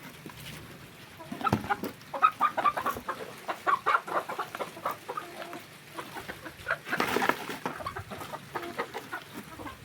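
Domestic hens clucking excitedly in a rapid run of short calls as they are given a treat. A louder burst of noise comes about seven seconds in.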